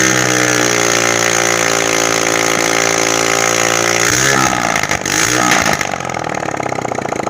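Freshly assembled Honda 125cc engine running at raised revs, then dropping about four seconds in, blipped once, and settling into a steady idle.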